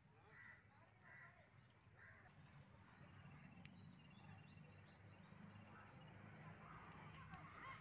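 Very quiet outdoor ambience: small birds chirping faintly here and there, with a few thin, rapid high trills over a faint low rumble.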